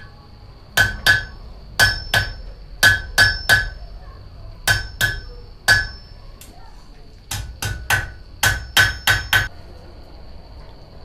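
Blacksmith's hammer striking metal on an anvil: about twenty ringing blows in quick groups of two to four, starting about a second in and stopping a second or so before the end.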